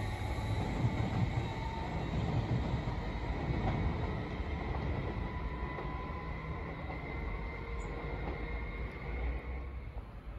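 BLS double-decker electric multiple unit moving away along the track, its wheel-on-rail rumble slowly fading. A thin, high, steady tone rides on top and dies away near the end.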